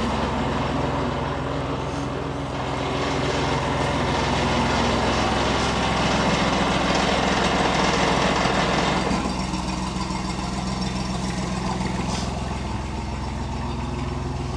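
STL1000's engine running with a misfire, a fault it has had since new. It settles down to a lower, quieter idle about nine seconds in.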